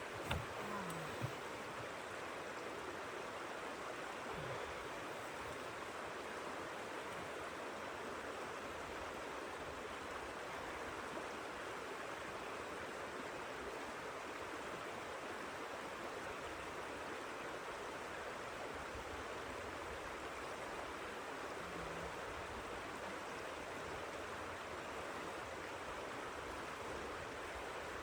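Steady rushing noise of blizzard wind, with a few soft knocks in the first second or so.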